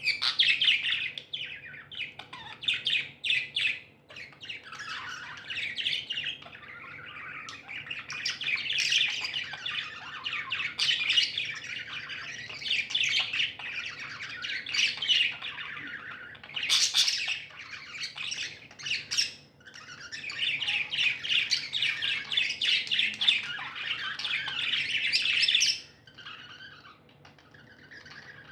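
Budgies chirping and warbling in a fast, almost unbroken stream of chatter, with sharp squawks mixed in. It thins to a few quieter calls near the end.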